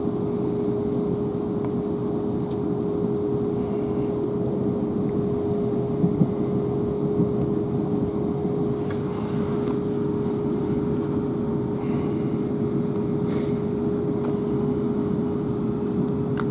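Interior noise aboard a Class 444 Desiro electric multiple unit: a steady rumble with a constant hum, and a couple of brief knocks about six seconds in.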